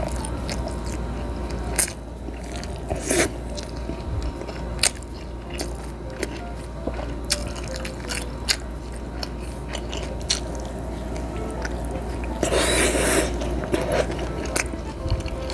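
Close-miked eating with the hands: chewing with wet smacks and many short, sharp crunching clicks, with a denser, louder burst about twelve to thirteen seconds in.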